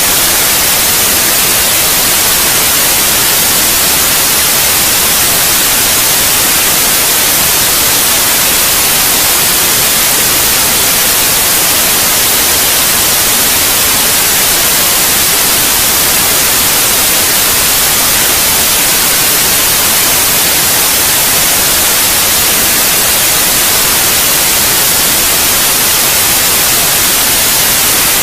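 Steady white noise for lulling a baby to sleep: an even, unchanging hiss, brightest in the high frequencies.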